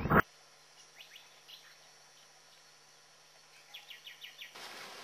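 Faint bird chirps over a quiet background: a few short, falling chirps about a second in, then a quick run of about five near the end. Before them, a loud rush of noise cuts off abruptly just after the start.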